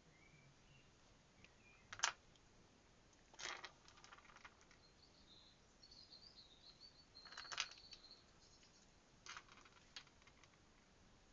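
Beads clicking lightly against each other as they are threaded onto bracelet cord: five short, sharp clicks spread through otherwise near silence, with faint high chirping in the background through the middle.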